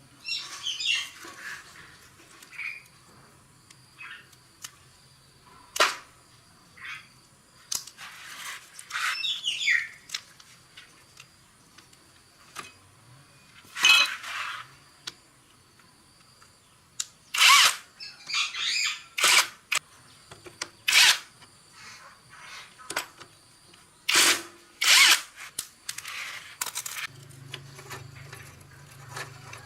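Hand tools working on motorbike parts: scattered sharp metal clinks and knocks, with short stretches of scraping or rattling.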